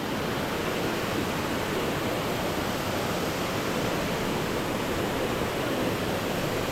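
Rushing river water, a steady, even noise.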